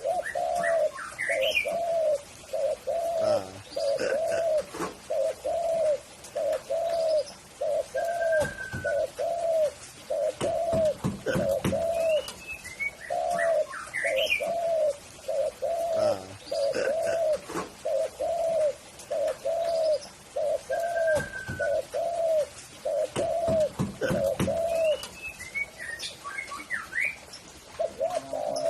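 Spotted dove (tekukur) cooing: a long run of evenly spaced, arched low coos, about one and a half a second, with a short pause about halfway and stopping a few seconds before the end. Other small birds chirp higher up now and then.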